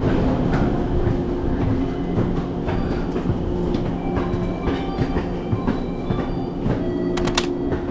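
Railway station sound: the steady low rumble and hum of a train, with scattered footsteps on stone stairs and a quick run of sharp clicks near the end.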